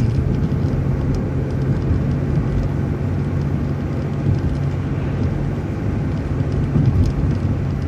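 City transit bus driving, heard from inside: a steady low engine hum over road and tyre noise.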